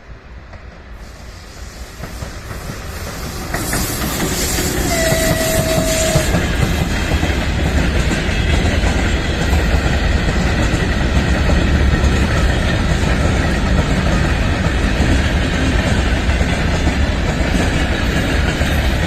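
A train approaching and passing close by on the rails, growing louder over the first four seconds and then running loud and steady. A short steady tone sounds for about a second about five seconds in.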